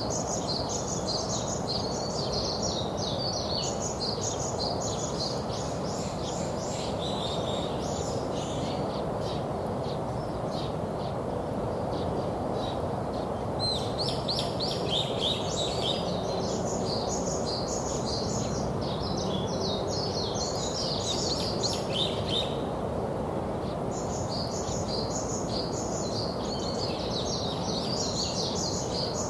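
Small songbirds chirping in quick, overlapping runs of high notes. The chirping comes in bouts, breaking off for a few seconds about a third of the way in and again briefly later. Under it runs a steady low background rush.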